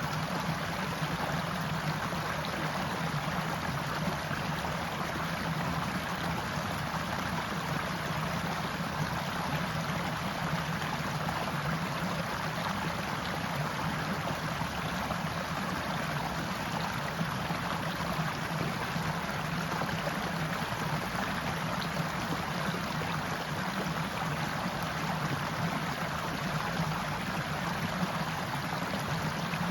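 Forest stream flowing steadily over rocks: a continuous, even rush and gurgle of water.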